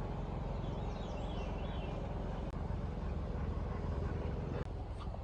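A motor vehicle engine idling steadily, with a short wavering chirp from a bird about a second in.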